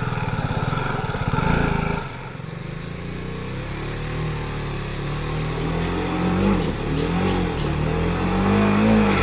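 Motorcycle engine running on the move, its revs rising and falling as the rider works the throttle. The sound changes abruptly about two seconds in.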